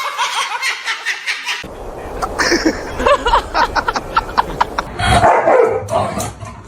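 A dog barking.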